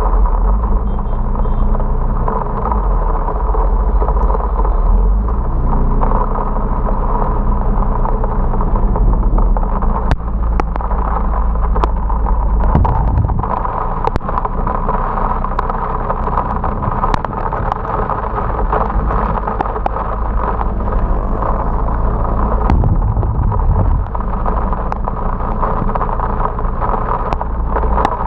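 Rushing wind and heavy rain noise on an action camera carried on a moving motorcycle, with the motorcycle engine's hum shifting in pitch underneath. Sharp ticks come through often from about ten seconds in.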